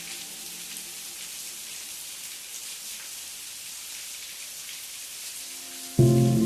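Steady rain, an even hiss flecked with the patter of individual drops. Near the end a loud, sustained musical chord comes in suddenly over it.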